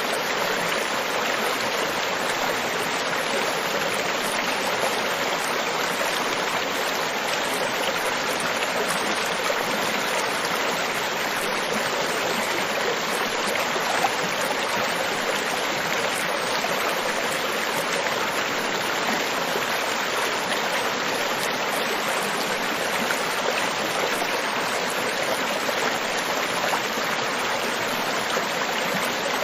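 Beach ambience of steadily rushing water, an even hiss that holds at one level throughout with no distinct wave surges.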